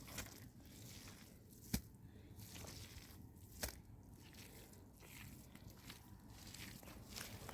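Two sharp knocks about two seconds apart, with faint scattered crunching in between.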